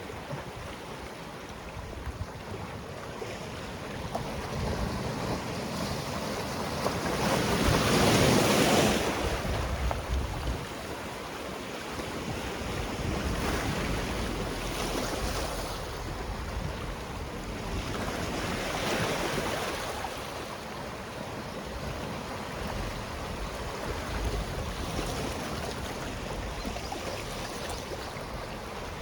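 Sea waves washing onto a rocky shore, a steady surf wash that swells several times, loudest about eight seconds in, with weaker surges around the middle. Low wind buffeting on the microphone runs underneath.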